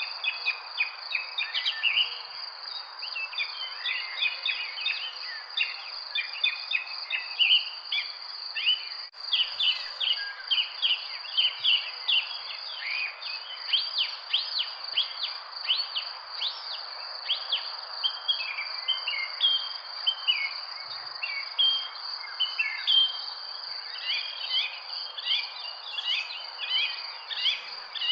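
A chorus of birds chirping and singing in quick, overlapping bursts over a continuous high insect drone, with a steady background hiss beneath.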